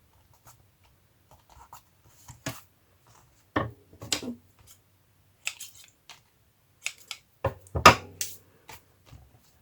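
Scissors cutting paper, with paper being handled: a scattering of short, sharp snips and rustles, the loudest near the end.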